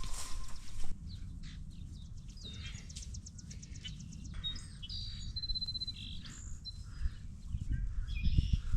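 Wild birds chirping and calling, with a quick trill a little past the middle, over a low steady rumble.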